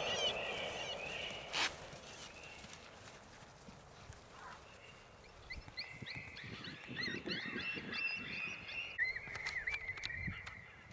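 Echo of a rifle shot rolling away and dying out, one sharp click about a second and a half in, then from about halfway a run of quick high chirping calls.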